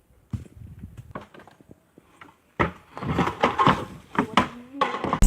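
Scattered knocks and clicks, turning into a busier, louder stretch of clatter about two and a half seconds in.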